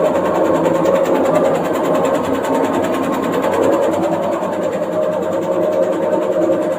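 Washing machine running and vibrating hard with a fast, steady rattle, the machine shaking in place; the owner calls the shaking a problem.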